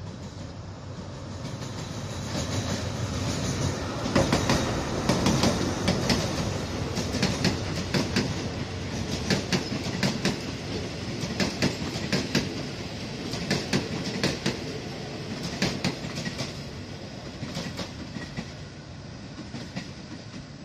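Diesel-hauled passenger train running past close by, its steel wheels clacking over the rail joints in an uneven stream of clicks over a steady rumble. The sound builds a few seconds in and dies away near the end as the train moves off.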